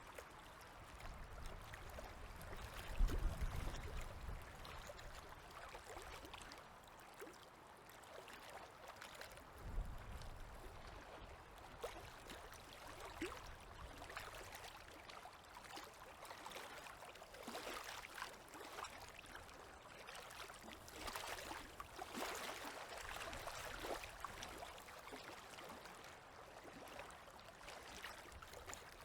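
Small river waves lapping and splashing softly at the water's edge, with many faint little splashes. A low rumble comes about three seconds in and a brief low thump near ten seconds, the loudest moments.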